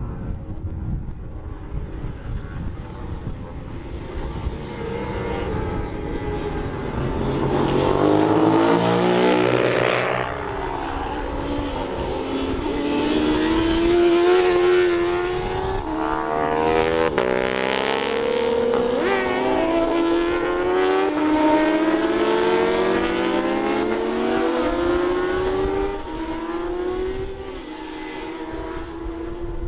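Several racing motorcycles passing at speed, their engines rising in pitch as they change up through the gears. The first passes loudest about ten seconds in with a sharp drop in pitch, more follow, and the sound fades near the end.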